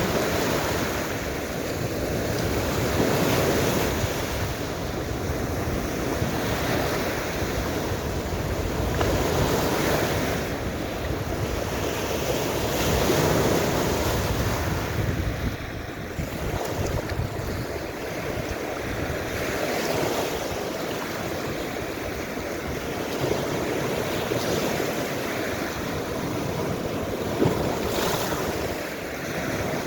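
Baltic Sea waves breaking on the shore, the surf swelling and easing every few seconds, with wind buffeting the microphone.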